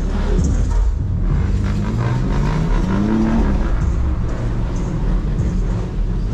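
Car engine and exhaust accelerating. The engine note rises steadily in pitch from about a second in to about three and a half seconds in.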